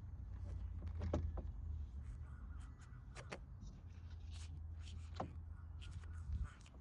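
Scattered clicks and knocks from hands working the clamps and cover of a car's engine air filter housing, over a steady low rumble.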